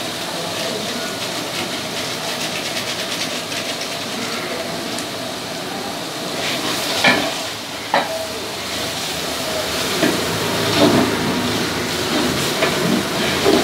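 Onions, ginger-garlic paste and freshly added chilli powder frying in oil in a large aluminium pot, giving a steady sizzle. A metal ladle stirs through it, with several louder scrapes and knocks against the pot from about halfway on.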